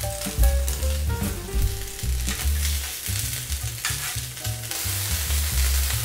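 Garlic chives sizzling in a hot pan as they are stir-fried over high heat and turned with metal tongs, with a few light clicks of the tongs. Soft background music with a bass line plays underneath.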